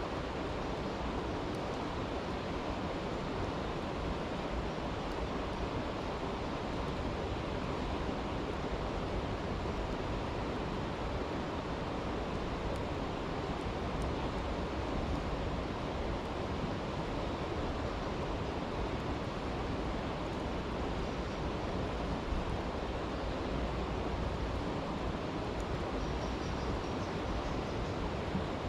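A brook rushing steadily, with a few faint crackles from a campfire.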